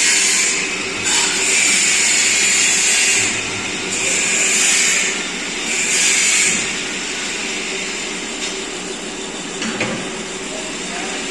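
A metalworking machine running with a steady hum. In the first seven seconds it is broken by four bursts of high, hissing cutting noise, then it settles to the hum alone.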